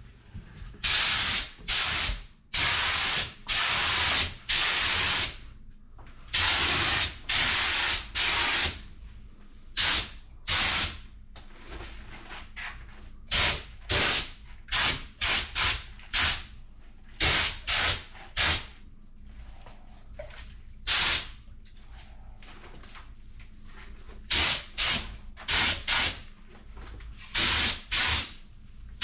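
Paint sprayer hissing in a long series of short bursts, each lasting from a fraction of a second to about a second and a half, with brief pauses between passes.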